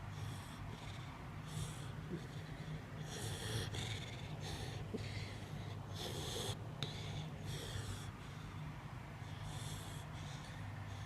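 Dog snoring in its sleep: short, hissing, wheezy breaths at an irregular pace of about one a second, over a steady low hum.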